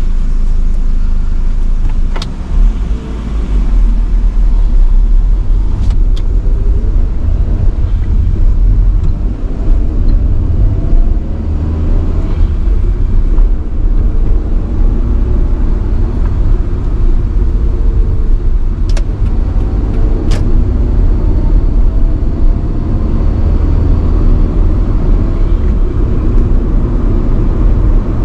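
1985 Nissan Sunny B12 on the move: steady engine and road rumble, the engine note drifting up and down with throttle. A few sharp clicks stand out, two close together near the end.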